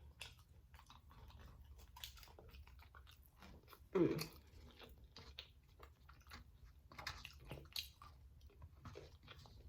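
Close-miked, wet chewing of a soft rice-and-bean burrito bowl: a run of small mouth clicks and smacks. About four seconds in there is a short vocal sound that falls in pitch.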